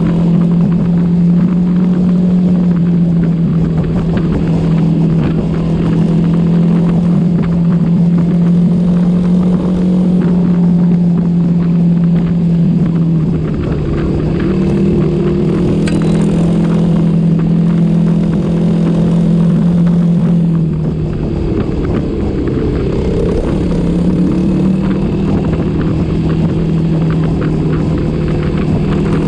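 Small motorcycle engine running at a steady cruising speed over low wind rumble. The engine note drops briefly about 13 seconds in and again about 21 seconds in, then picks back up.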